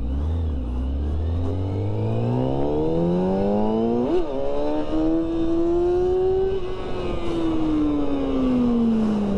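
Motorcycle engine accelerating hard on a wheelie run, its revs climbing steadily with a brief sharp flare about four seconds in. It then pulls up more slowly to a peak and eases off, the revs falling through the last few seconds.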